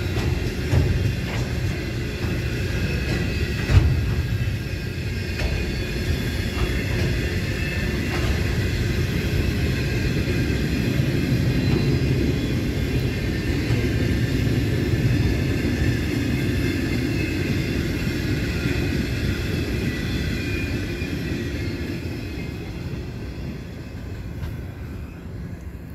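Freight train's loaded container wagons rolling past on steel rails: a steady rumble with a light high ringing above it and scattered knocks, one loud knock about four seconds in, fading over the last few seconds as the end of the train draws away.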